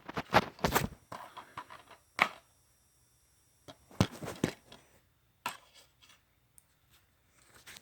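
Plastic DVD case being handled: sharp clicks, taps and scrapes in short clusters near the start, about two seconds in, around four seconds and again a little later, with a quiet pause between.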